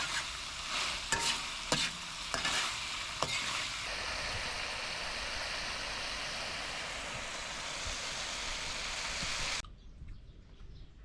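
Food frying and sizzling in a pan, with a utensil scraping and knocking against the pan during the first few seconds. The sizzle then runs steady and cuts off suddenly near the end, leaving a much quieter background.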